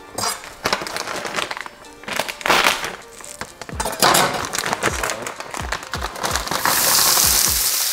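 Background music with a steady beat over the crinkle of a plastic bag of frozen shrimp. About six and a half seconds in, a steady sizzle starts as the frozen shrimp go into hot bacon fat in the pan.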